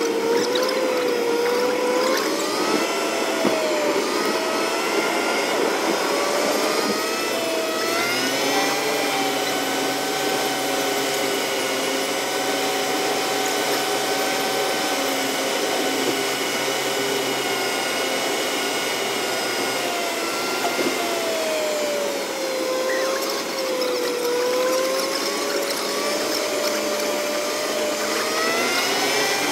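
Car engine and road noise inside the cabin, played back fast-forwarded so it comes out as a high, whining hum. Its pitch climbs over the first several seconds, holds steady, dips a little past the middle and climbs again near the end.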